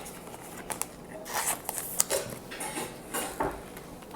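Pokémon trading cards and their packaging being handled: light clicks, slides and short rustles at irregular intervals as cards are sorted and set down.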